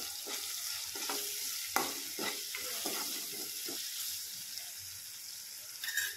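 Tomato and garlic masala sizzling in hot oil in a non-stick kadhai while a metal spoon stirs and scrapes through it in uneven strokes, with a sharp clink about two seconds in. Near the end there is a short knock.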